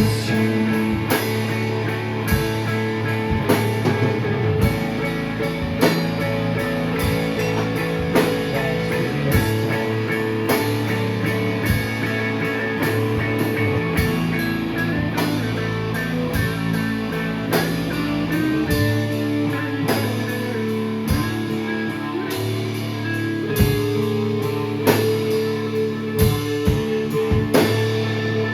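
Live shoegaze rock band playing an instrumental stretch: long sustained electric guitar chords over a drum kit, with no singing. About two-thirds of the way through the deep bass drops away while the guitars and drums carry on.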